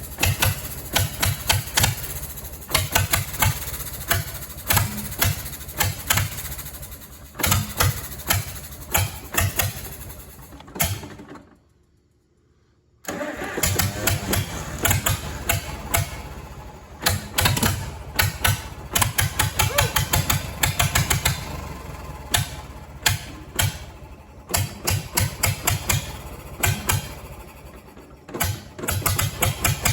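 Farmall tractor engine cranking over in a steady pulsing rhythm, with a brief stop about twelve seconds in before cranking resumes. The engine has sat unused a long time and is hard to start.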